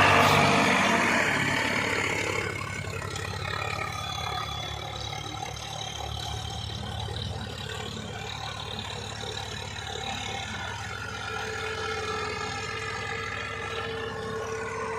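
Tractor diesel engine running under load, louder over the first two seconds and then steady.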